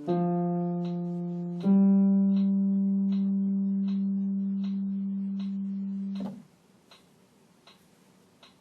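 Piano playing a slow bass line: a low note, then about two seconds in a lower note held for some four seconds before it stops. Then a pause in which only a soft click ticks steadily, about every 0.6 seconds.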